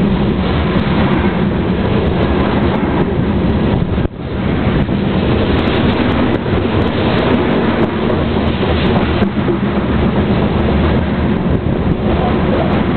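Covered hopper cars of a freight grain train rolling past at close range: a loud, steady rumble of steel wheels on rail that dips briefly about four seconds in.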